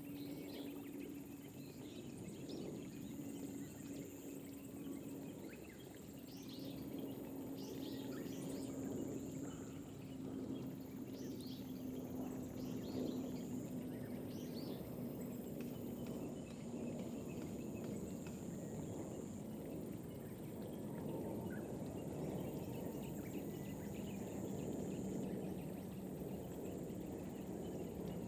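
Light rain falling over rice paddies, with birds chirping on and off and insects trilling in long stretches that start and stop. A steady low drone runs underneath and slowly falls in pitch.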